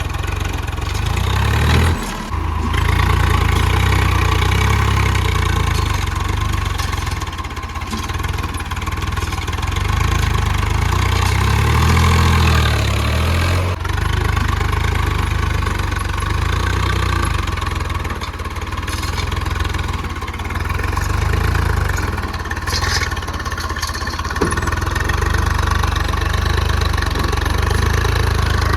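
JCB 3DX backhoe loader's diesel engine running under load while digging and loading, its sound swelling and easing, with brief dips about two seconds in and about fourteen seconds in.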